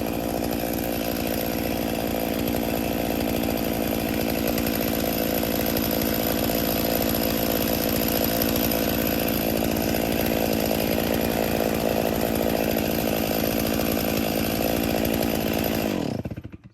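Two-stroke chainsaw running at steady high revs, cutting into a tree being felled. Near the end the revs fall away and the engine stops.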